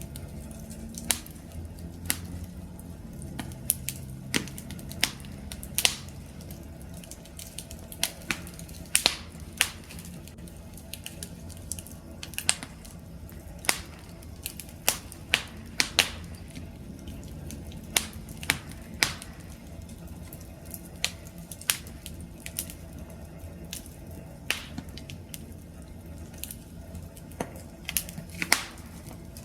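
Wood fire crackling: a low steady rumble of the flames with sharp, irregular pops and snaps, one or two a second.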